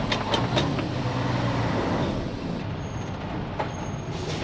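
Day-cab truck's diesel engine running steadily under way, heard from inside the cab, with a few sharp clicks and rattles near the start and again later.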